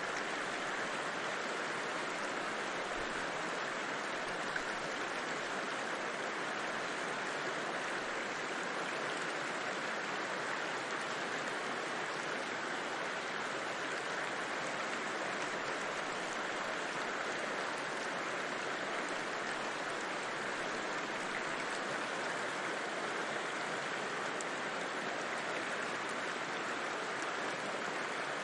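River water rushing steadily over rocks, an even, unbroken roar with no other sounds.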